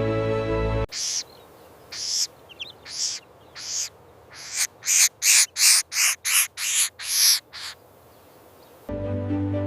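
A bird giving a series of harsh, hissing calls: a few spaced about a second apart, then about nine in quick succession. Background music stops just before the calls and comes back near the end.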